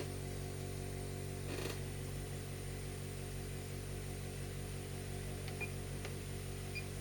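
Hot air rework station blowing steadily, its fan giving a constant hum and hiss, with a click about a second and a half in and a few short electronic beeps near the end.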